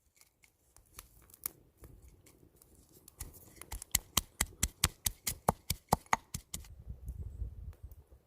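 A run of sharp, regular taps, about three a second, in the middle, with scattered lighter clicks before it and a low rumble near the end.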